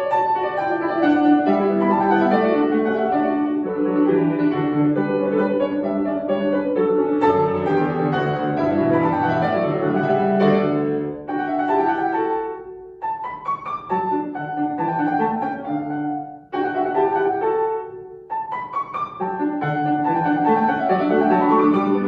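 Solo acoustic piano playing a classical piece: a steady stream of notes, with a few short breaks between phrases in the middle.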